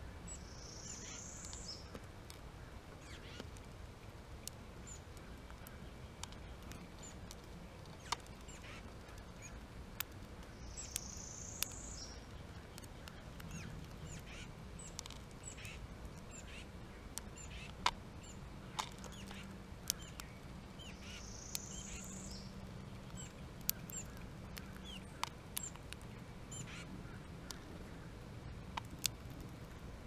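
Wild birds calling: a high call lasting about a second comes three times, roughly ten seconds apart, among faint short chirps. Scattered sharp clicks run through it.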